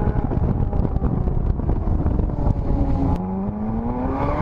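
Car engine under way with wind buffeting and road rumble. The engine pitch drops sharply about three seconds in, as at an upshift, then climbs again.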